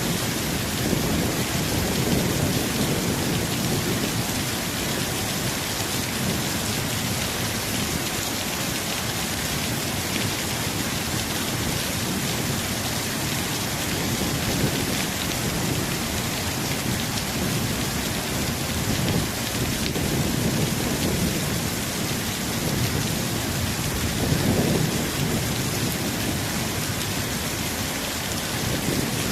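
Steady tropical rain falling, with low rumbles that swell and fade several times.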